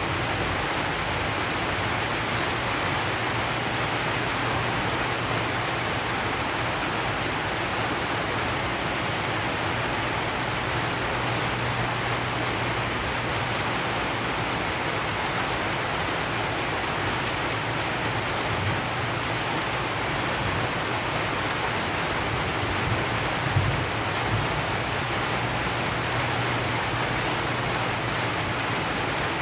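Steady rain drumming on a corrugated zinc roof, an even hiss with a few slightly louder drops about three-quarters of the way through.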